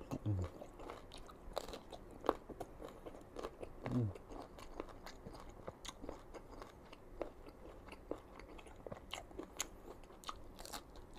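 Close-miked crunching and chewing of crisp, unripe green mango, with repeated sharp crunches as it is bitten and chewed.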